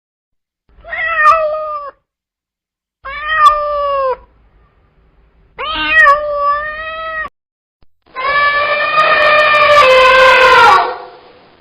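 A cat meowing four times, the first three short and the last a long drawn-out meow that drops in pitch as it ends.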